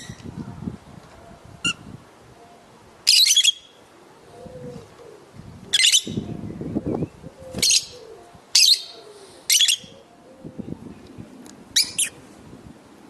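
Lovebirds giving short, shrill screeching calls, about seven of them a second or two apart.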